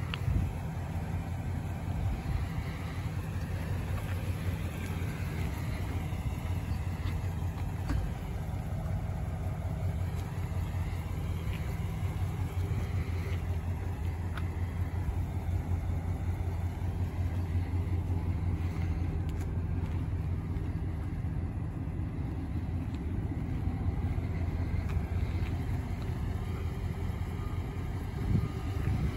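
A 2021 Chevrolet Tahoe police SUV's engine idling, a steady low hum that does not change.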